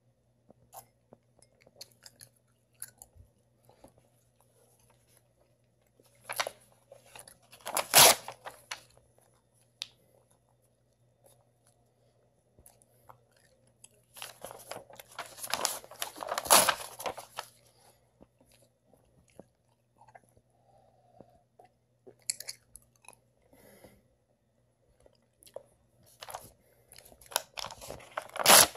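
A person biting and chewing a sheet of printed paper: crackling, crunching bursts in three spells with quiet between, the sharpest as the paper is bitten near the end.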